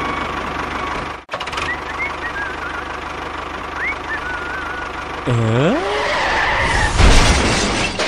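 Tractor engine sound running steadily, with a brief cut about a second in, a few short high chirps, and a swooping tone that dips and rises about five seconds in. A louder rush of engine noise comes near the end.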